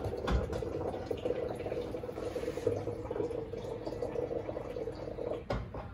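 Electrolux Turbo Compacta 7 kg washing machine agitating a load of rugs in low water: steady sloshing and churning in the tub, with a thud about a third of a second in and another near the end.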